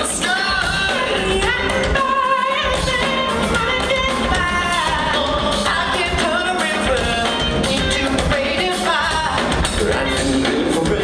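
Pop vocal group singing over a backing band, with drums keeping a steady beat.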